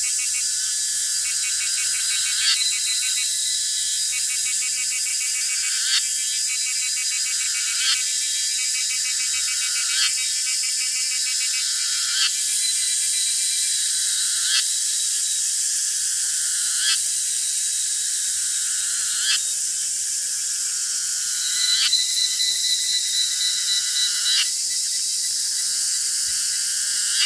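Outdoor chorus of calling insects: a steady high-pitched shrill, with a sharp call repeating about every two seconds and rapid pulsed trills among it.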